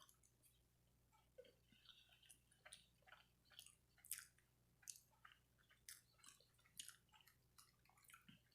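Faint chewing and wet mouth smacks of a person eating, short irregular clicks about one or two a second.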